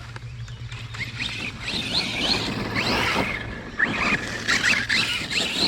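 Arrma Kraton 6S brushless RC monster truck's motor whining up in pitch again and again as it is throttled through wet grass, over a steady low hum.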